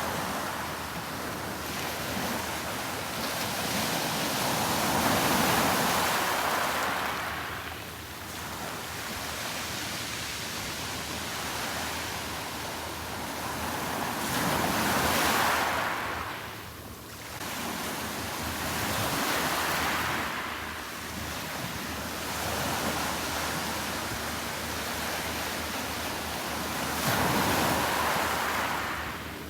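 Sea waves breaking and washing up the beach: a rushing surf noise that swells and fades in slow surges every several seconds.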